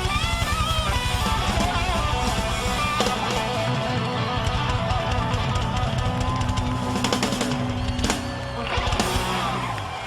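Rock band playing the last bars of a song live: electric guitars strummed over a drum kit, the band stopping together near the end.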